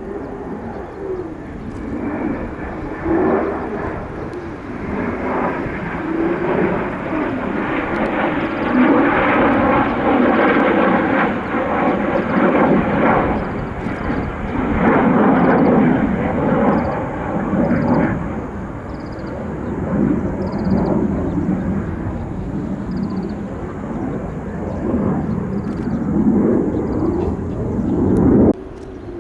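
F-15 fighter jet's twin engines during a display pass: a wavering jet roar that builds to its loudest about a third of the way in, eases off, and cuts off suddenly near the end.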